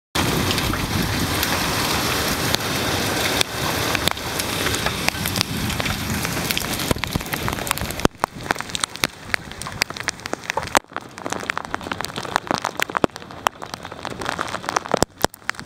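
Heavy rain pouring down in a dense, steady hiss. About eight seconds in it drops in level and turns into separate sharp taps of drops striking close by.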